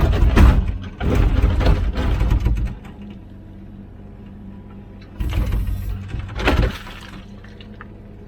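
Komatsu PC16 mini excavator's diesel engine running steadily, with two spells of noisy scraping and sloshing as the bucket digs into wet, rocky ground: one near the start, one past the middle.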